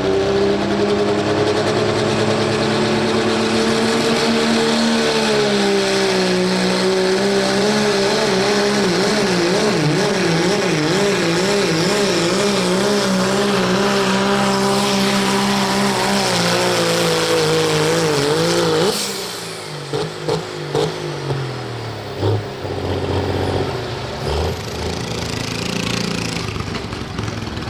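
Dodge pickup's turbocharged diesel engine running flat out under load on a truck pull, its pitch wavering and slowly sagging down the track. About 19 seconds in it drops off sharply as the throttle comes off, followed by a few short revs.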